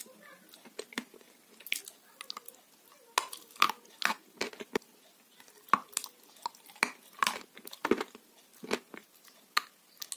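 Close-up mouth sounds of a person chewing a mouthful of food, with irregular sharp smacks and clicks about twice a second, and a bite into more food near the end.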